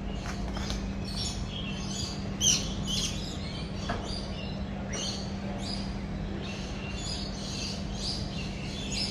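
Several birds chirping with many short, high calls overlapping, one louder call about two and a half seconds in, over a steady low hum.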